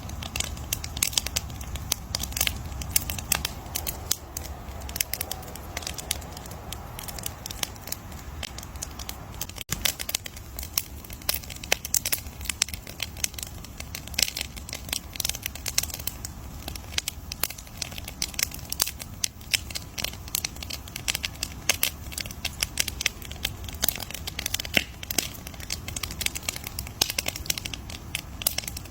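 Campfire crackling: burning wood snapping and popping in dense, irregular clicks over a low steady rumble.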